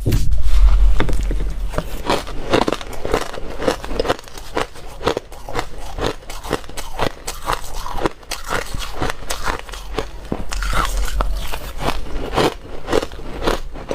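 Frozen ice being bitten and chewed close to the microphone: a dense, irregular run of crunches and crackles with a low rumble underneath.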